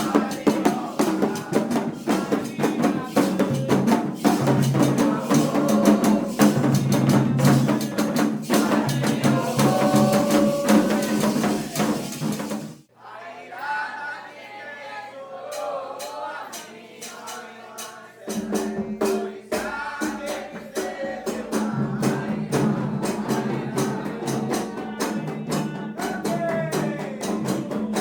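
Drumming and hand percussion with singing. Around 13 seconds in, the drums cut off abruptly and only quieter singing is left; the percussion comes back about five seconds later.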